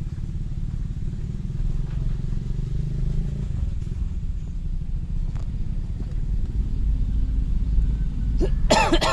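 Motorcycle engine running steadily while riding, a low continuous rumble. A brief voice or shout cuts in near the end.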